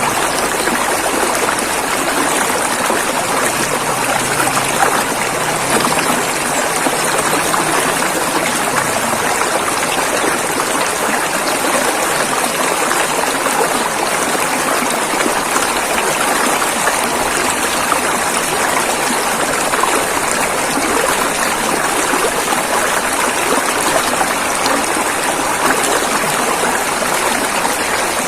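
River water flowing over rocks, a steady rushing and splashing with no breaks.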